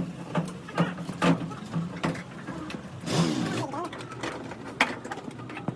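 Irregular sharp knocks and taps, with a short hiss about three seconds in.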